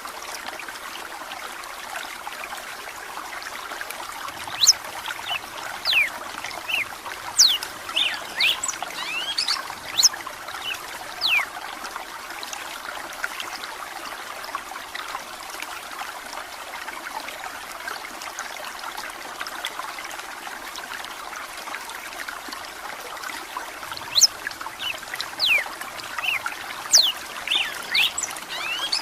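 Red-cowled cardinal singing in two bouts of quick, sharp, falling notes, about five seconds in and again near the end, over a steady trickle of running water.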